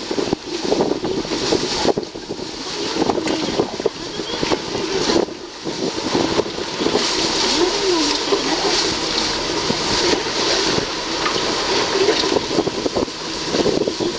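Yamaha FR-23 fishing boat's engine running, under heavy wind buffeting on the microphone, with waves splashing against the hull.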